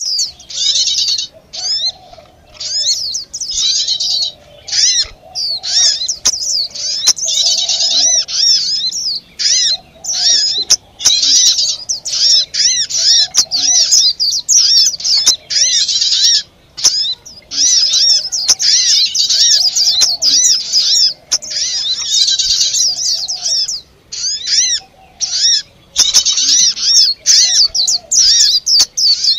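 A bird-lure recording of many small birds chattering and chirping in an agitated, noisy flurry, meant to draw wild birds in. Short rapid calls and trills come thick and fast with only brief pauses, over a fainter lower-pitched call that repeats every second or two.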